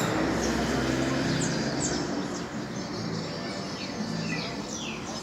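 Several small birds chirping, with many quick falling chirps overlapping, over a low background hum.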